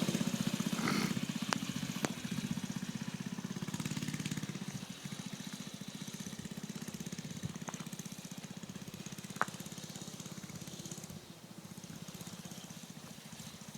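Mini bike's small engine running with a steady fast putter, fading as the bike rides away, with a few sharp clicks along the way.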